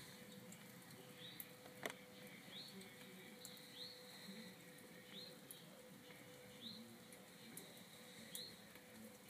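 Faint, repeated short rising chirps of a small bird, about one every second or so, with a sharp tick about two seconds in.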